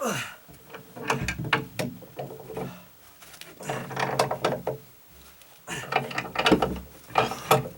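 Ratchet wrench clicking in about four spells of strokes, tightening nuts on the anchor bolts of earthquake tie-down brackets.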